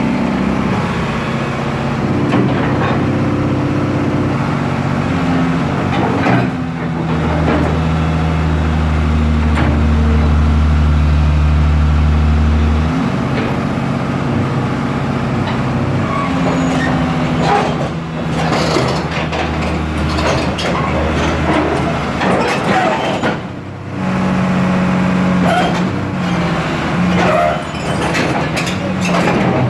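Heavy diesel engine running, its pitch and load shifting, with a deeper, heavier run for several seconds around the middle. Scattered knocks come over it in the second half.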